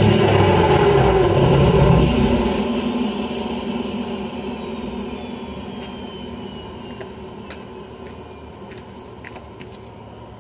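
Straight-piped, DPF-deleted 6.7 L Powerstroke V8 diesel running loud until about two seconds in, when the engine note drops away. The turbocharger's high whine then falls in pitch over several seconds as the rest of the sound fades down, with a few faint clicks near the end.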